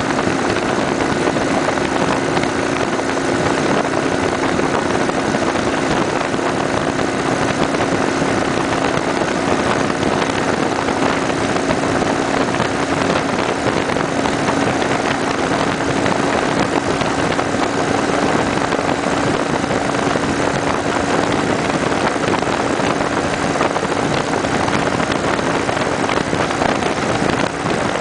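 Ride noise from a Kawasaki Vulcan 900 Custom SE's V-twin motorcycle at a steady cruising speed while it tows a pop-up camper: a steady rush of wind and road noise with an even engine drone under it.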